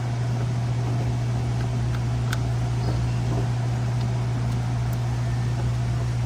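Steady low hum of a running machine, with a few faint light ticks over it.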